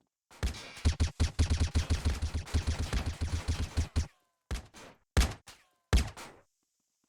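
A rapid, dense run of knocks for about four seconds, then three separate thumps.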